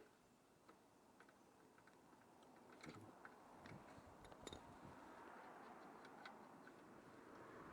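Faint, scattered clicks and light taps of hand tools working loose the motorcycle seat's mounting bolts, over a faint hiss.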